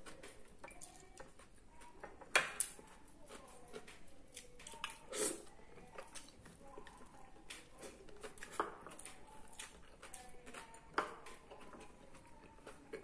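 Eating by hand: soft chewing and mouth smacks mixed with scattered small clicks and taps as fingers work rice and chicken in a ceramic bowl, a handful of them sharper and louder.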